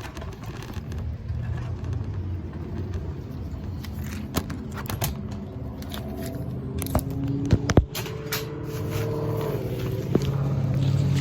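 A low steady rumble like a motor vehicle, with several sharp clicks and knocks around the middle.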